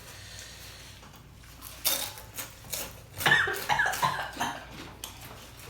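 A person coughing several times, starting about two seconds in, from the burn of a very hot chili sauce while eating, with light clinks of cutlery on dishes.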